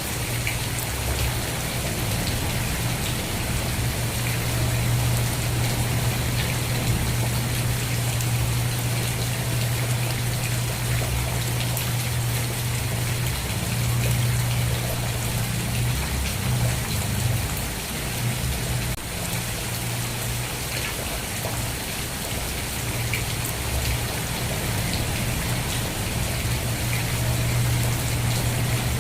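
Steady rain, many drops pattering in an even hiss, over a continuous low rumble.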